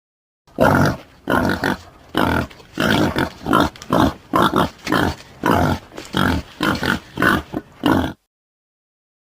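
Boar grunting in a rapid series of short, rough grunts, about two a second. The series starts about half a second in and stops suddenly about eight seconds in.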